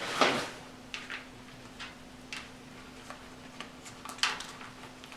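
Scattered light clicks and knocks of household handling, with short rustling bursts at the start and about four seconds in, over a faint steady hum.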